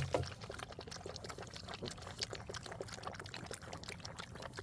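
Steady pouring, trickling sound of many small crackles, with a dull thump at the very start.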